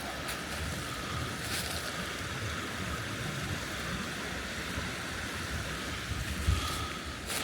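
Steady rush of a rain-swollen creek, with wind gusting on the microphone as a low rumble.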